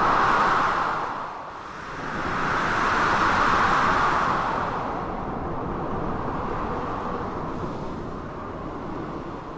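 Storm ambience of blizzard wind and crashing sea waves: a steady rushing noise that surges twice, near the start and again around three to four seconds in, then eases.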